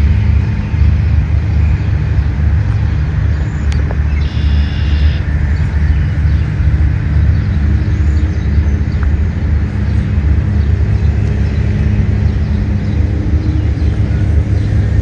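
A steady low rumble throughout, with a brief high chirp about four seconds in.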